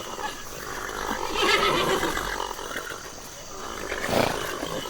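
A large animal calling: one long, drawn-out call that swells and fades, then a second, shorter call about four seconds in.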